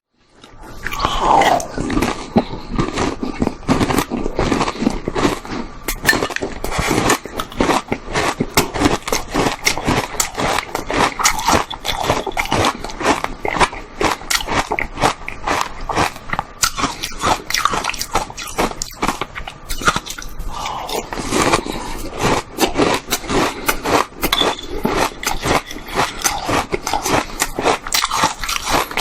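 Ice being bitten and chewed close to the microphone: dense, rapid crunching that starts about half a second in and goes on without a break.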